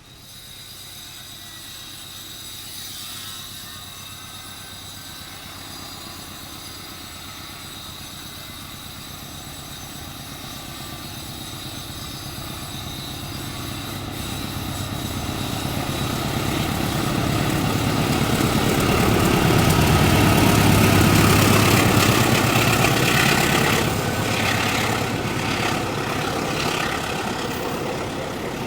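Passenger train hauled by a diesel locomotive approaching and passing, its engine drone and the rumble of the wheels on the rails growing steadily louder to a peak about two-thirds of the way through, then easing off a little.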